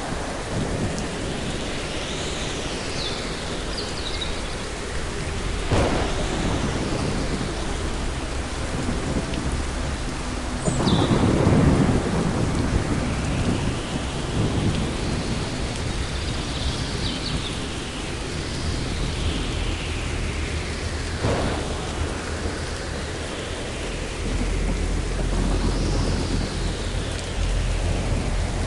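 Thunderstorm: steady rain with sharp thunderclaps about six seconds in, near the middle and again about twenty seconds in, the middle one the loudest, followed by a low rumble.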